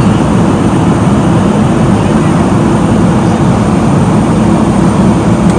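Loud, steady cabin noise inside a climbing airliner: an even, low rushing drone of the engines and airflow.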